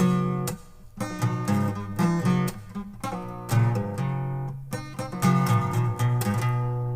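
Acoustic guitar strummed in a rhythmic pattern, chords ringing out between strokes.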